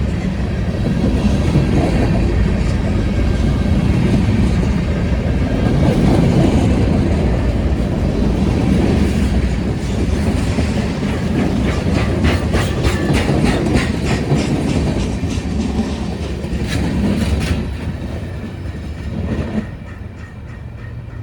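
CSX freight train Q69417 rolling past: a steady rumble of the cars with wheels clacking over rail joints and a run of quick clicks in the middle. The sound fades near the end as the last cars go by.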